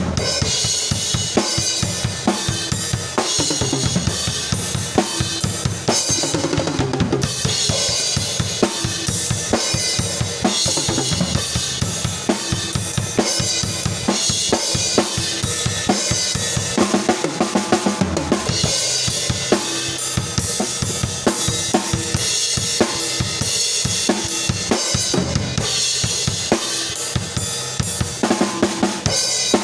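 Isolated drum kit track playing a steady groove with bass drum, snare and cymbals. Long stretches of cymbal wash ride over the beat, and a quick run of strokes comes about seventeen seconds in, like a fill.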